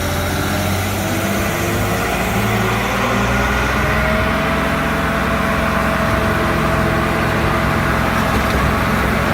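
The 44 hp diesel engine of a Multitek 1620SS firewood processor running steadily under work, with a whine that rises in pitch about four seconds in.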